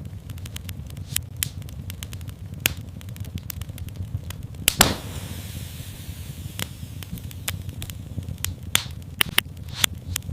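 Wood fire in a fireplace crackling, with frequent sharp pops over a steady low rumble of the flames. A louder pop comes about five seconds in, followed by a brief hiss.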